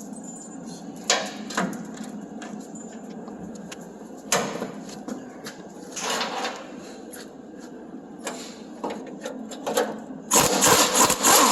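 Scattered metal knocks and clanks from tools working on a rusted truck bumper and its mounts, over a steady machine hum. Near the end comes a loud burst of rapid metal knocking.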